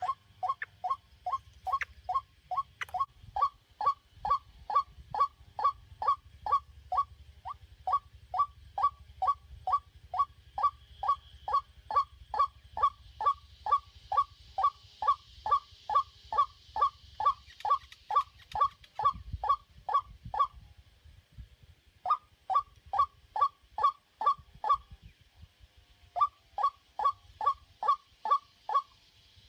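White-breasted waterhen calling: short 'kru-ak' notes repeated at about two a second in long monotonous runs, with two brief pauses, about 20 and 25 seconds in.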